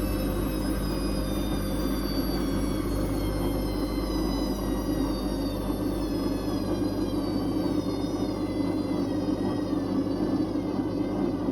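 Whirlpool Indiana 1400 washing machine slowing from its high-speed spin: a steady drum rumble with a motor whine that falls slowly in pitch.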